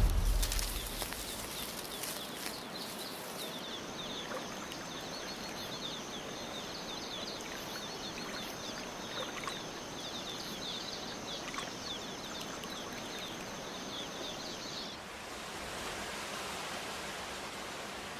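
Rainforest ambience: a steady hiss with rapid, repeated high chirping calls over a thin, steady high-pitched whine. About fifteen seconds in, the chirps and whine stop and only a plain hiss remains.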